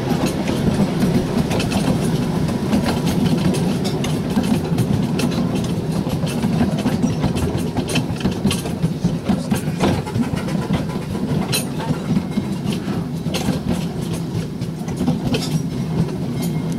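Miniature railway train running along its narrow-gauge track, heard from an open passenger car: a steady low running noise with many sharp clicks and clacks of the wheels on the rails.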